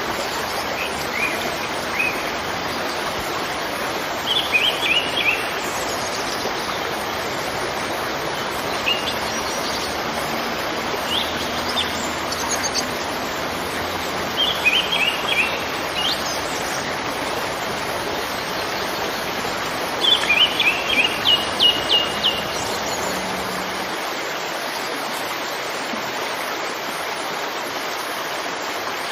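Waterfall rushing steadily, with a small bird singing short runs of quick chirps every few seconds, the longest and loudest run about twenty seconds in.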